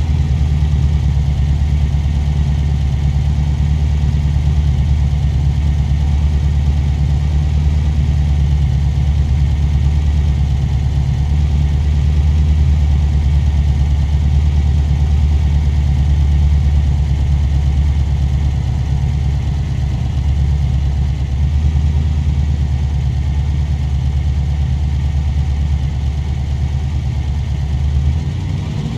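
V8 engine idling steadily with a low, even note.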